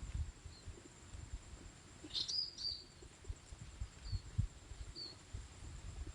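Small songbird chirping: short high chirps repeated every second or so, with a louder run of notes about two seconds in, over low thumps and rumbling of handling noise on the microphone.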